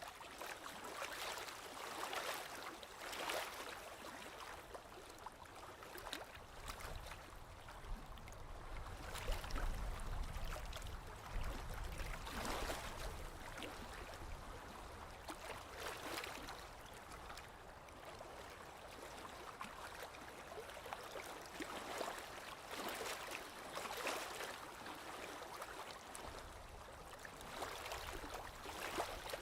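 Small waves lapping on a lake shore, a soft splash every one to three seconds. A low rumble runs under it from about seven to thirteen seconds in.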